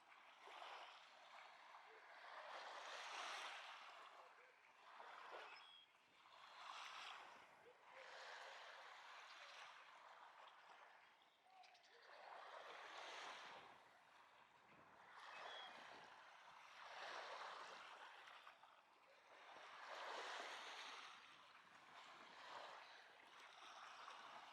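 Small lake waves washing onto a sandy beach. Each wash swells and falls back roughly every three to four seconds.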